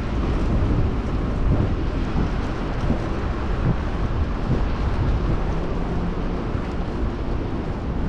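Wind buffeting the microphone of a camera riding on a moving bicycle: a steady, loud rush of air heaviest in the low rumble.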